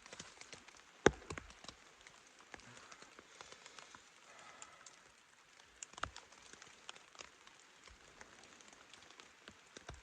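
Rain drops and drips tapping irregularly on a teepee shelter's fabric, with one much louder tap about a second in.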